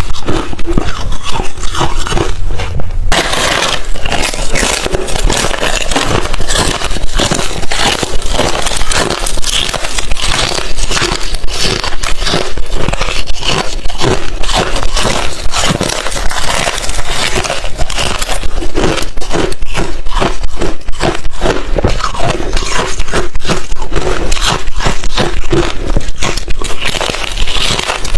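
A person chewing crushed, refrozen ice chips: loud, rapid, dense crunching with no pause.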